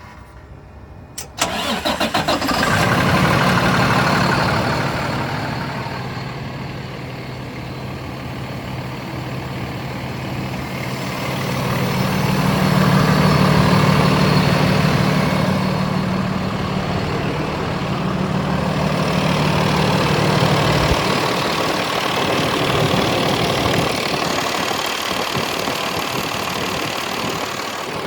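2019 Freightliner M2 truck engine cold-started after sitting a week: it cranks briefly about a second in, catches almost at once and settles into a steady idle. The idle swells louder and eases back a couple of times.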